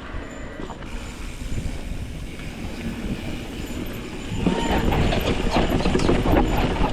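Mountain bike rolling down a rough, loose dirt trail: tyres crunching and the bike rattling and clattering over the bumps, with a low rumble underneath. It gets louder and busier about four and a half seconds in as the ride picks up speed.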